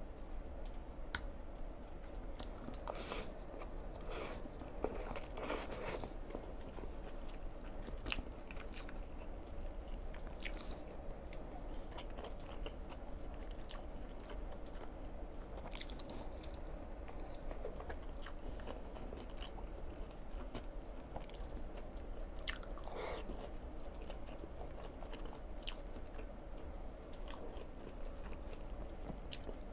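Close-miked chewing and wet mouth sounds of a person eating forkfuls of black bean instant noodles and fried beef loaf, with scattered smacks and clicks, busiest about three to six seconds in and again around twenty-three seconds. A steady low hum runs underneath.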